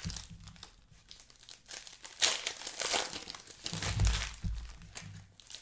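Foil trading-card pack wrappers crinkling and tearing as basketball card packs are torn open and handled, in irregular crackles with louder rustles about two and four seconds in.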